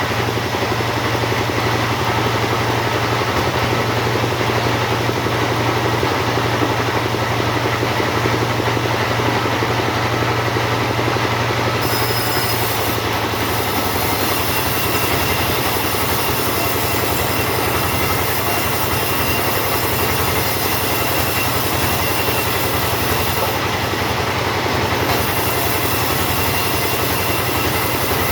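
Two-stroke chainsaw running steadily under load as it saws teak, its tone shifting about twelve seconds in.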